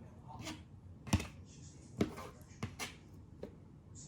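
Kitchen knife cutting raw chicken on a cutting board, with the blade knocking on the board four or five times at uneven spacing.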